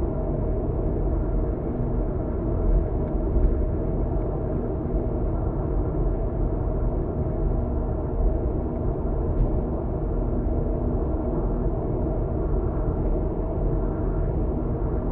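Steady road noise and engine drone of a car cruising at speed, heard from inside the cabin: a constant low rumble with a faint hum and no change in pace.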